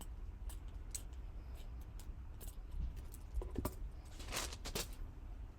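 Scattered light clicks and a short rustle about four and a half seconds in, from fabric and small sewing tools being handled on a work surface.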